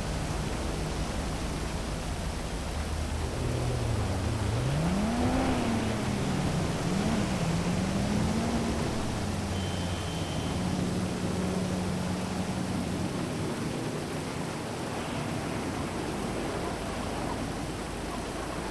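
Steady hiss of heavy rain over a city. Underneath it a motor vehicle's engine runs, its pitch rising and falling for several seconds in the middle before holding steady and then fading.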